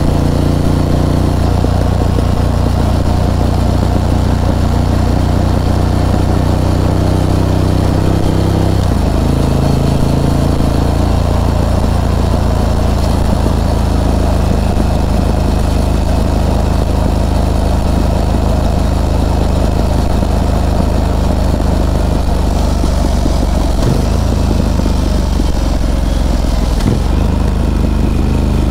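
Harley-Davidson Pan America's Revolution Max 1250 V-twin running steadily under way, its engine note dropping in pitch about nine seconds in and changing again a couple of seconds later.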